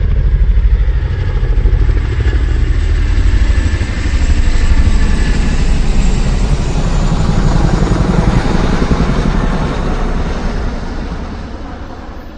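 A motor vehicle's engine running close by with a fast, low pulsing, swelling and dipping in level, then fading away over the last couple of seconds.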